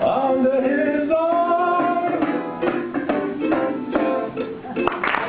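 Ukulele strumming under a man's voice holding one long sung note, then a run of quick strums ending in a final chord near the end: the close of the song.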